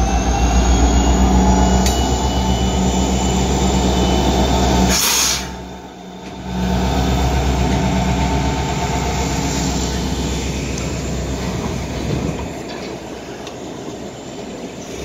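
Norfolk Southern EMD SD70ACe diesel locomotive passing close by, its engine running loud and steady with a faint rising whine. After a brief dip about five seconds in, a second locomotive goes by just as loud. Then empty coal hopper cars roll past, quieter, with wheel and rail noise.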